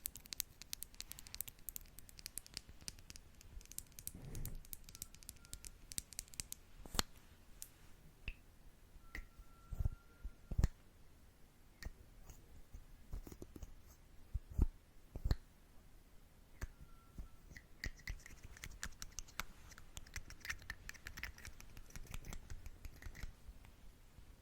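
Makeup brushes and makeup tools tapped and brushed against a close microphone: a dense run of light clicks and scratches, with a few soft thumps around the middle and a few brief squeaks.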